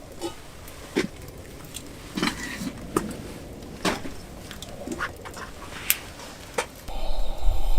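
Wood campfire crackling, with irregular sharp pops and snaps. A louder, steady rushing noise with a low rumble comes in near the end.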